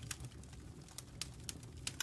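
Logs burning in a fireplace: sharp, irregular crackles and pops a few times a second over the low, steady rumble of the flames.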